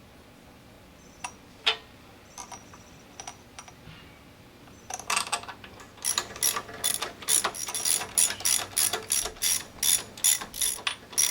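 Ratchet wrench clicking while tightening the bolts that hold the pressure washer pump's end cap on: a few scattered clicks, then from about halfway a steady run of about three clicks a second.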